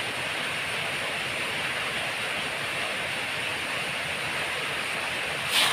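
Steady hiss of rain falling. A single short, sharp click just before the end.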